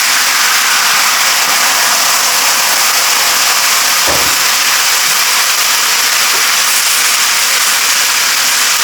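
Jerk-seasoned chicken sizzling loudly in a hot skillet, with Worcestershire sauce just poured over it. A brief low knock about four seconds in.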